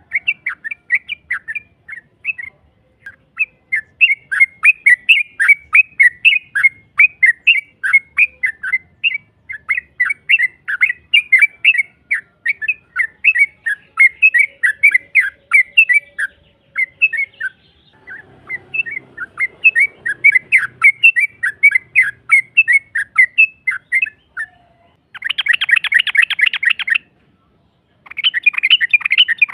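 Yellow-vented bulbul (trucuk) call used as a lure: rapid runs of sharp chirps, about five a second, broken by short pauses. Near the end come two dense, fast buzzy trills.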